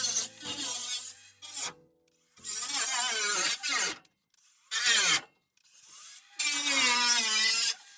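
Several rasping, scraping strokes of a hand tool on the car's sheet-metal floor pan. Each stroke lasts about a second, with short gaps between.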